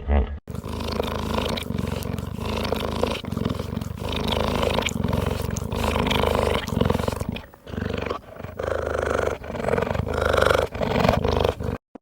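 Big cat roaring in a run of rough, loud calls with a few brief pauses, cut off abruptly just before the end.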